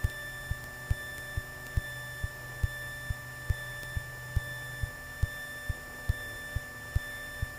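Light-aircraft intercom audio from a Piper PA-28-181 Archer II with the engine at idle: a steady electrical hum with faint high whining tones and a soft low thump repeating about twice a second.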